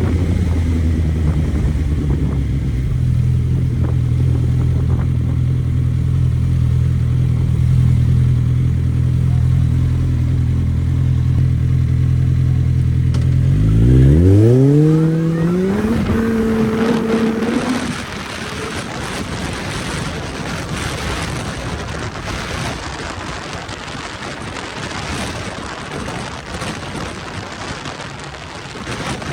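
Suzuki GSX650F's inline-four engine running with a steady drone, then revving up sharply about halfway through and holding a higher note briefly. After that the engine note gives way to a steady rushing noise.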